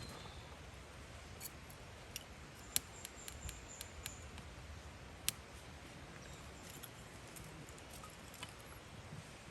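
Wood campfire crackling: irregular sharp snaps and pops, a few of them louder, about three and five seconds in, over a low steady rumble.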